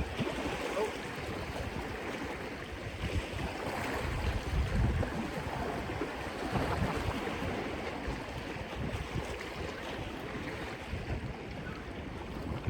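Surf washing against the rocks with wind buffeting the phone's microphone, the low wind rumble gusting strongest around four to five seconds in.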